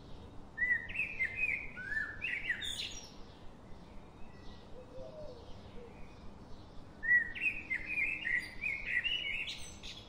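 A bird singing: two phrases of quick, rapidly changing notes, one about a second in and one near the end, with fainter calls between them over a steady background hiss.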